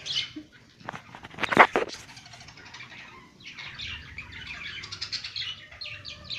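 Small birds chirping in quick runs of short, high calls. A brief loud noise about a second and a half in is the loudest thing heard.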